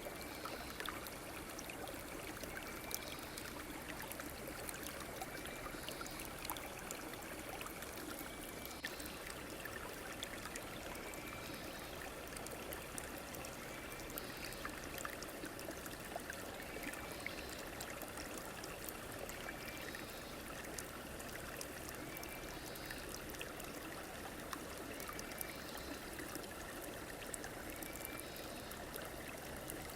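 A stream or river flowing with a steady rushing and trickling. A short high chirp repeats every two to three seconds over it.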